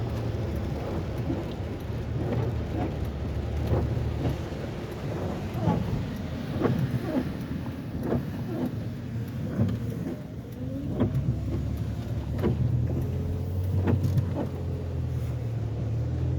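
A car driving, with a steady low engine and road hum and irregular knocks and thumps throughout.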